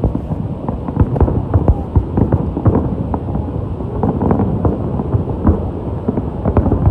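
Aerial fireworks shells bursting in quick succession, many booms and sharp cracks overlapping into a continuous barrage.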